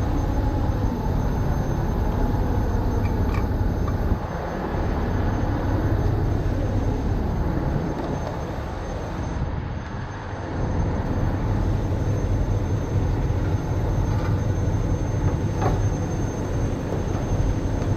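Heavy diesel truck engine running with a steady low rumble.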